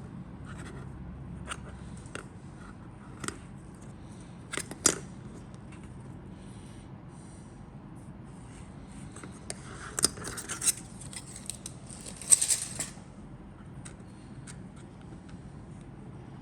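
Handling of the model kit's contents and packaging: scattered clicks and taps, with two bursts of crinkly rustling about ten and twelve seconds in.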